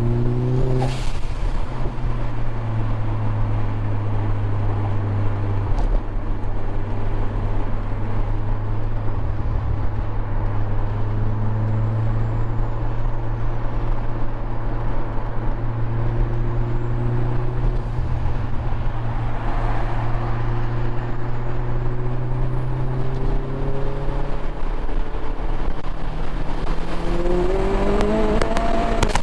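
Big-turbo Mini Cooper JCW R56's turbocharged four-cylinder engine running with a steady drone at motorway speed. Near the end the revs climb steeply as a hard pull begins, and a rapid crackle of sharp pops follows right at the end.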